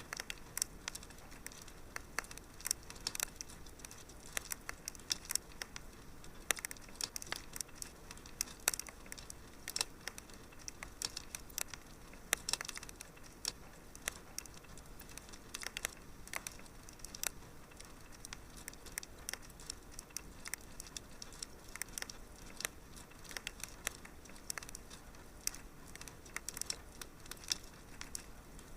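Wood fire crackling in a fireplace: frequent sharp irregular pops and snaps over a low steady hiss.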